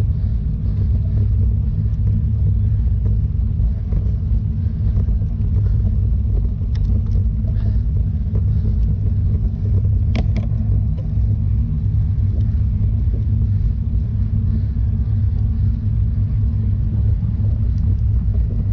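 Wind buffeting the microphone of a camera on a moving bicycle: a steady low rumble, with a brief click about halfway through.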